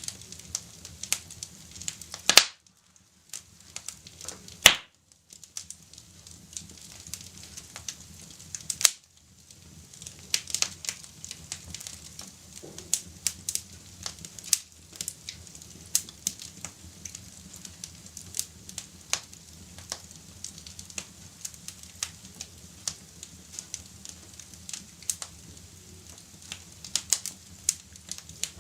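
Wood fire crackling in a fireplace: a steady hiss with frequent small snaps and pops, and two much louder pops in the first five seconds, each followed by a brief hush.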